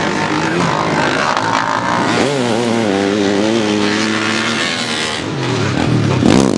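Off-road motorcycle engines running and revving, their pitch wavering up and down. Near the end a loud swell rises and then falls in pitch, like a bike passing close by.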